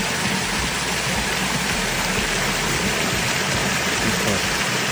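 Steady rush of running water splashing into a koi pond.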